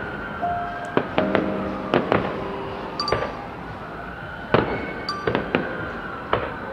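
Aerial fireworks shells bursting: about a dozen sharp bangs at uneven intervals, some coming in quick pairs, with a quieter stretch in the middle.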